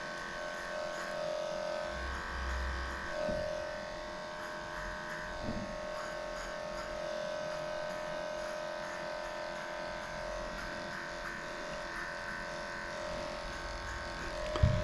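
Electric dog grooming clippers running steadily as they shave through a matted coat, a constant buzzing hum that holds one pitch.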